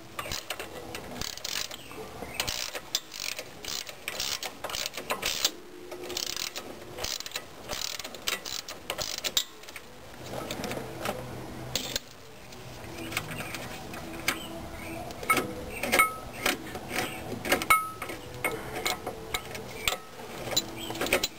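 Hand ratchet wrench clicking in rapid repeated strokes while loosening a truck shock absorber's mounting bolt, with occasional metal tool clinks.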